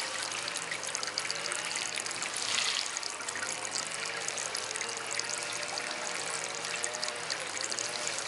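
Small DIY water fountain trickling steadily, briefly louder about two and a half seconds in, with honeybees buzzing around it as they come to drink.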